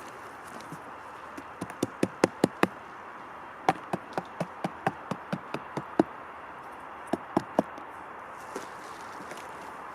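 Sharp knocks of a tool striking wood, in three quick runs: about seven, then about ten at roughly four a second, then three.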